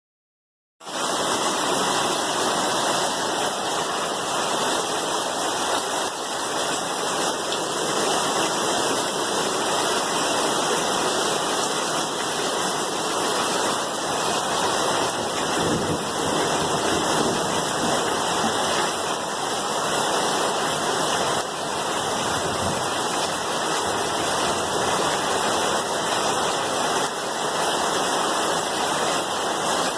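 Steady rain, a dense even hiss of water that starts abruptly out of silence about a second in.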